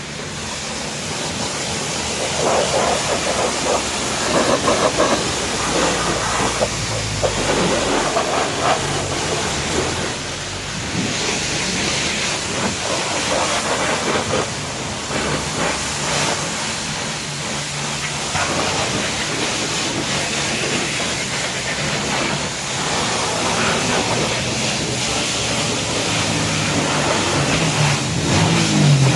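Car-wash spray equipment hissing steadily, with a low hum underneath.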